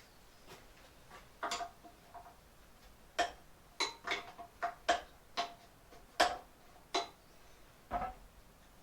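Metal hand tools clicking and knocking on the saw's metal parts, about ten separate sharp clicks at uneven intervals. Each click has a brief metallic ring.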